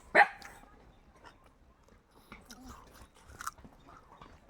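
Close chewing and biting sounds of people eating chicken, with one short, loud sound just after the start followed by scattered soft clicks of mouth and food.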